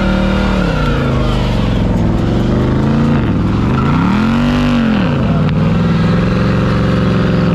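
Car engine revving: the pitch climbs and drops at the start, climbs and drops again a few seconds in, then is held steady at high revs near the end.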